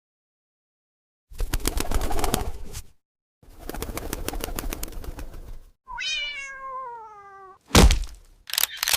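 A single cat meow falling in pitch, about six seconds in, after two stretches of rapid clicking, rustling noise. A sharp thump follows near the end, with short hissing bursts.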